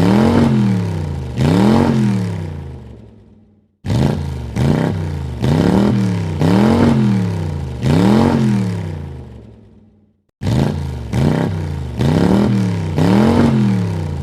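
Car engine revved in quick blips, its pitch rising and falling several times in a row. The revving dies away to silence about 4 s in and again about 10 s in, and a new run of blips starts abruptly after each gap.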